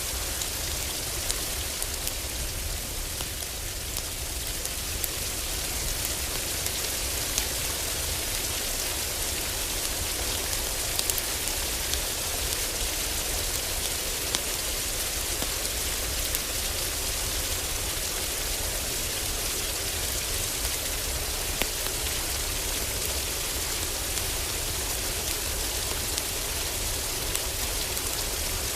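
Heavy rain falling steadily on a cabin roof, a dense even hiss, with occasional sharp crackles and pops from a wood fire in a fireplace.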